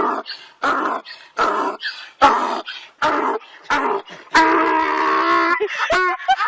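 A dog making a string of short whining, yipping cries, then one longer drawn-out cry about two-thirds of the way through.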